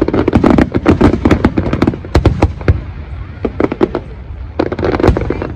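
Aerial fireworks going off in rapid volleys of sharp bangs with crackling between them, densest in the first couple of seconds and again near the end.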